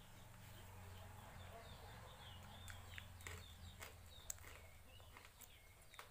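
Near silence: faint birds chirping in the background, with a few soft clicks.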